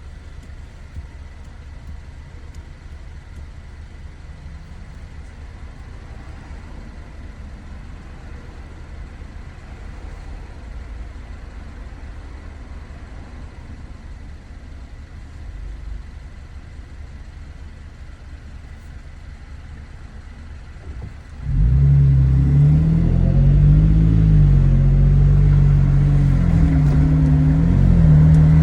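2019 Toyota Tacoma TRD Pro's 3.5-litre V6 through an MBRP 3-inch cat-back exhaust, running with a low steady rumble at light load. About twenty seconds in, the engine is pushed hard and the exhaust suddenly gets much louder, its note rising and falling as the truck accelerates.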